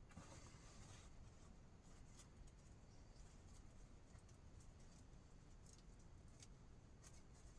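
Near silence with a faint scratchy rustle in the first second, then a few scattered small clicks.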